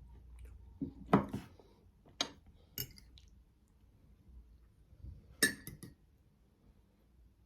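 Cutlery clinking against a dish during a meal, in a few separate sharp strikes: a loud one about a second in, two more shortly after, and a quick cluster of clinks in the second half.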